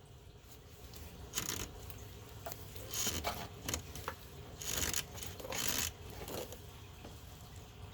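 Hands and a tool working a small hose off a car radiator: several short scraping and rustling noises.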